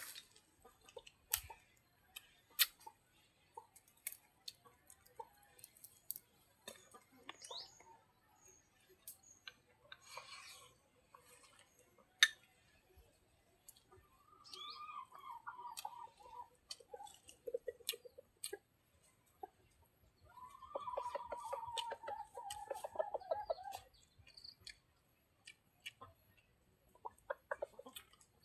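Chickens calling: a long falling call about halfway through and a longer one near the three-quarter mark, among scattered sharp clicks and taps.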